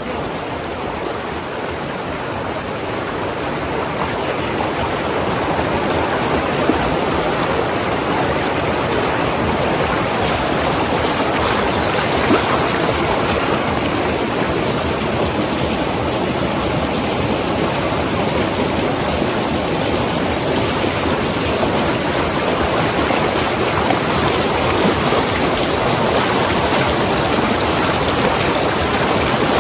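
Mountain river rushing and gurgling over rocks: a steady, dense rush of flowing water that swells up over the first few seconds and then holds even.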